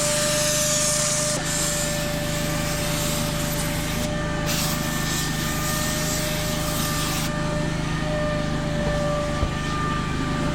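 Steam cleaner jetting steam in hissing spells over a steady motor whine, the hiss breaking off twice and dying away about seven seconds in while the whine runs on.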